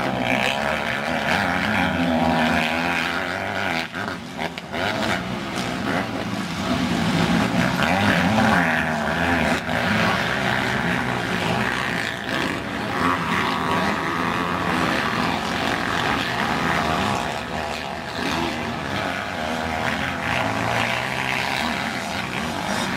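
Motocross bike engines revving hard and easing off, several bikes at once. Their pitch rises and falls continually as they accelerate and shift.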